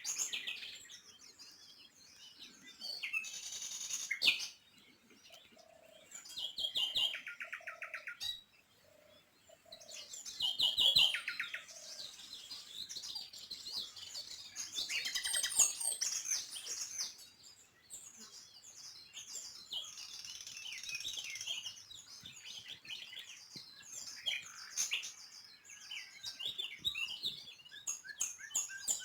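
Small songbirds chirping and twittering, several calls overlapping, broken by quick rapid trills.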